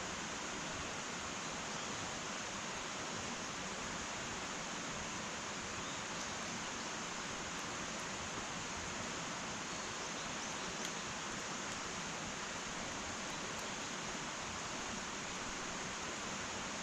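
Wood fire burning in an irori hearth: a steady hiss with a few faint, sparse crackles.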